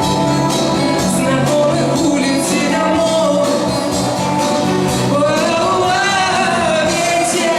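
A singer performing a Russian pop song live, with a sustained, gliding vocal line over instrumental accompaniment in a large hall.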